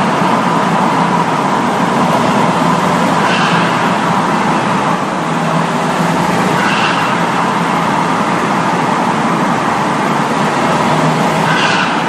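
Ford Mondeo TDCi diesel with the catalytic converter removed and a straight-through exhaust, driven through a tunnel: a loud, steady exhaust drone with a constant tone. A faint higher whoosh swells and fades about every three and a half seconds.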